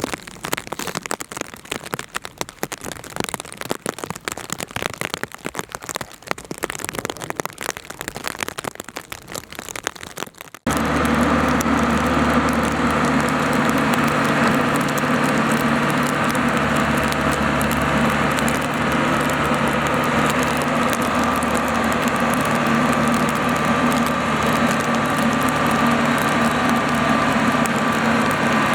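Uneven crackling patter, like rain on a surface, then after a sudden cut about a third of the way in, a farm machine's diesel engine running steadily at an even pitch.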